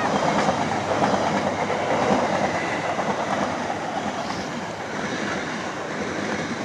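Argo Wilis passenger train rolling past, a steady loud noise of its wheels on the rails.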